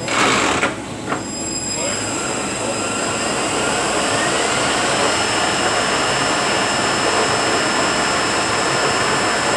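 Rebuilt Eaton Fuller RTLO-18913A 18-speed truck transmission running on a test dyno, with a steady high gear whine. Two short bursts of noise come in the first second, and a whine rises in pitch a couple of seconds in.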